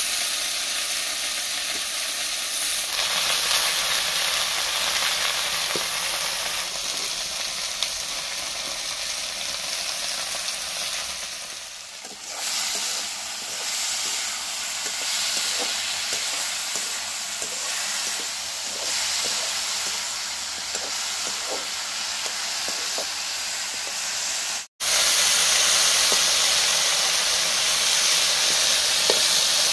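Vegetables sizzling in hot oil in a metal wok, with the scrape and clink of a metal slotted ladle stirring them. The sizzle cuts out for a moment near the end and comes back louder.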